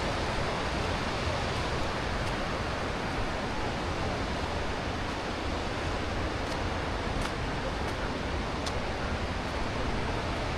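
Steady rushing of a creek's flowing water, an even hiss with no pauses, with a few faint ticks near the middle.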